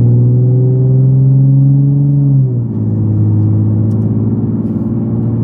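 Nissan 370Z's V6 engine pulling under way, its pitch slowly rising, then dropping suddenly about two and a half seconds in as it shifts up a gear, and running on evenly after that.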